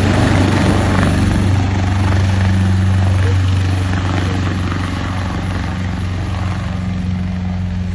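AgustaWestland AW139 twin-turbine helicopter running: a steady low rotor hum with turbine hiss above it, slowly getting quieter from about halfway through.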